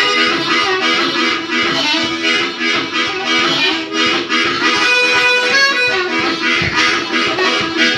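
Live blues band playing, with a harmonica lead over guitar and a steady beat.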